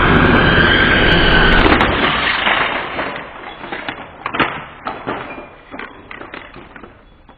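Loud rush of a 3D RC helicopter's rotors with a steady high whine, which falls away about two seconds in; scattered knocks and clatter follow.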